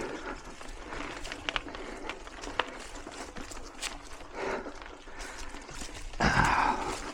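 Mountain bike climbing singletrack: scattered clicks and rattles from the bike on the trail, with the rider breathing hard, a loud breath about six seconds in.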